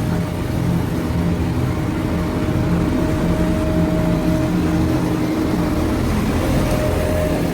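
JCB backhoe loader's diesel engine running steadily, a low rumble with a faint steady whine above it.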